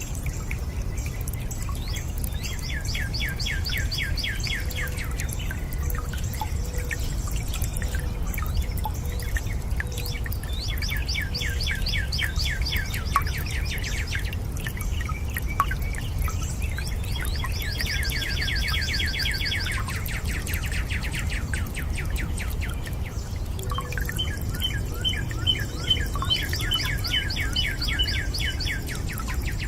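Water running and trickling steadily, with small drips, while a bird sings four bouts of rapid trilled chirps, each lasting a few seconds.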